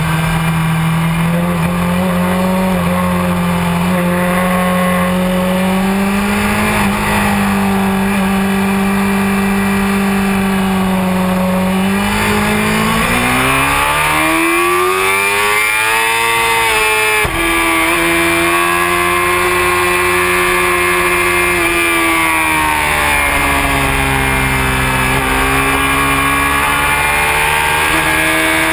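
Honda CBR600F4i's inline-four engine running hard at track speed. Its pitch holds steady for about twelve seconds, then climbs steeply, breaks briefly about seventeen seconds in as if on a gear change, and rises and falls with the throttle after that.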